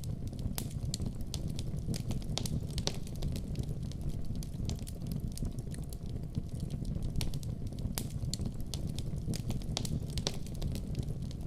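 Wood fire burning in a fireplace, with a steady low rumble of flame and frequent irregular crackles and pops from the burning logs.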